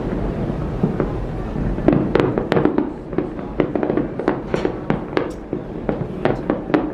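Fireworks display: many sharp bangs and crackles in quick succession, thickest from about two seconds in, over a steady low rumble.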